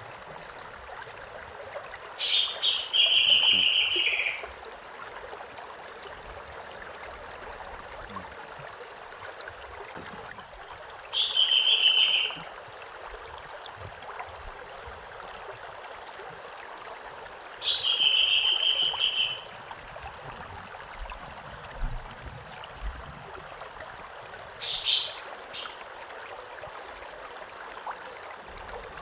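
A river stream running with a steady rushing trickle. A bird sings four times over it, roughly every six to seven seconds: three times a sharp high note leading into a level trill about one to two seconds long, and near the end two brief high notes.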